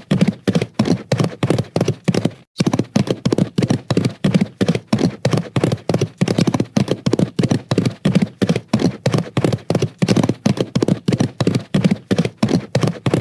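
Clip-clop of horse hooves trotting, an even run of sharp hoofbeats at about five a second, with a brief break about two and a half seconds in.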